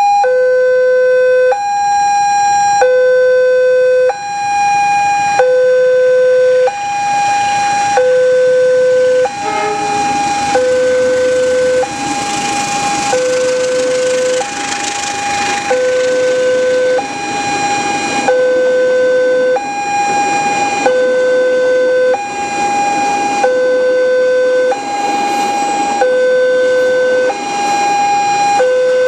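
Railroad level-crossing warning alarm sounding a two-tone electronic signal, a low and a higher tone alternating about every one and a third seconds, warning of an approaching train. A rushing noise builds underneath from about seven seconds in.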